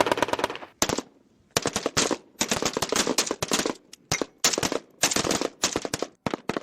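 Automatic weapons fire in a firefight: a string of rapid bursts of shots with short gaps between them.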